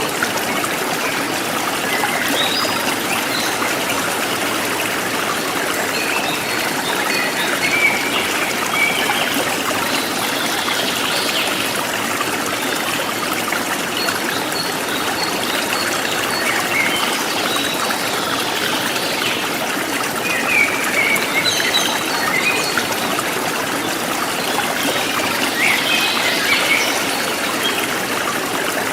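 A forest stream flowing and trickling steadily, with birds chirping and trilling over it throughout.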